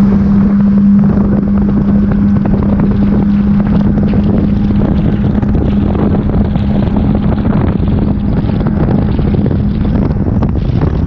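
Jet ski engine running at a steady high speed, one even drone, with wind buffeting the microphone.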